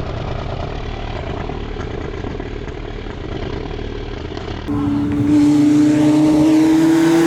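Car engines rumble at low revs. About five seconds in, a car's engine comes in loud, holding a high-revving note that climbs slowly as the car accelerates away.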